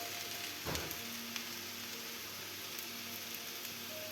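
Food sizzling steadily in a frying pan, likely the young potatoes being fried, with a soft knock just under a second in.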